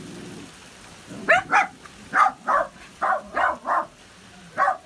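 A dog barking repeatedly, about eight short barks in quick pairs and threes, starting about a second in.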